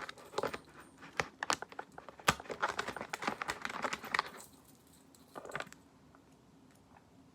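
Rapid crinkling and clicking of small items and packaging being handled and gathered up during clean-up, dense for about four seconds. A short rustle follows a second later, then it goes quiet.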